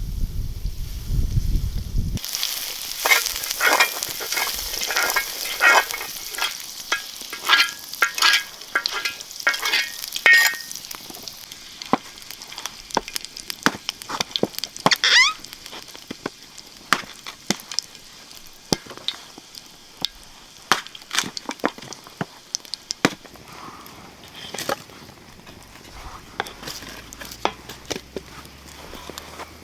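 Lamb frying in a saj pan, sizzling loudly with many sharp pops and spits. After about ten seconds it settles to a quieter, steady sizzle with scattered pops.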